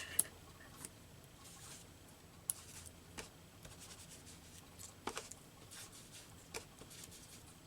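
Soft, scattered taps and light rubbing of paper and small craft pieces being handled and worked by hand on a desk, about eight small clicks spread across a faint background hiss.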